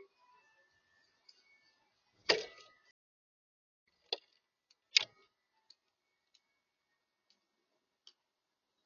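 Sharp knocks and taps on a backyard bird feeder as birds peck at it and land on it: a loud knock about two seconds in, another about five seconds in, then a few light ticks.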